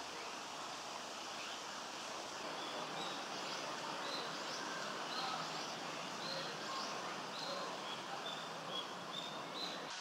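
A bird calling a series of short, high, evenly pitched notes, about two a second, starting a few seconds in, over a steady hiss of woodland background.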